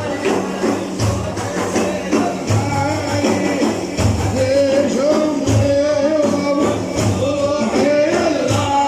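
Devotional praise music: hand frame drums beating a steady rhythm of about two strokes a second under a sung melodic line that grows stronger about halfway through.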